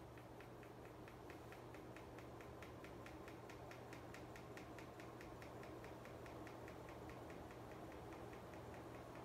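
SMC U42 Royal Flush ceiling fan running up to high speed, with a steady rapid ticking of about five clicks a second over a low hum. The ticking stops near the end.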